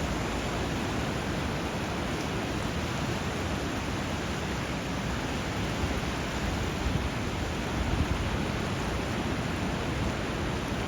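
Steady rushing of water where a river runs into the sea, an even hiss with a low rumble underneath and a few slight swells near the end.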